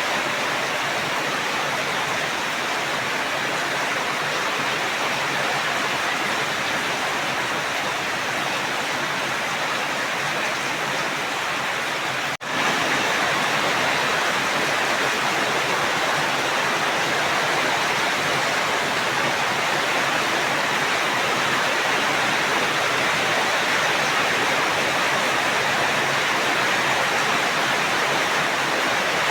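Steady, dense rain, an even hiss of falling water, with a momentary dropout about twelve seconds in.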